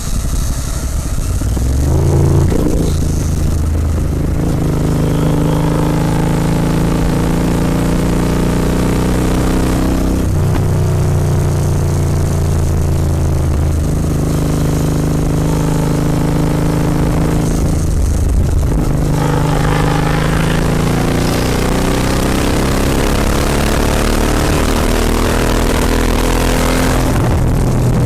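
Royal Enfield Continental GT 650 parallel-twin engine through Red Rooster aftermarket exhausts, accelerating under way. The engine note climbs steadily in pitch, drops sharply at upshifts about ten and eighteen seconds in, and climbs again after each shift.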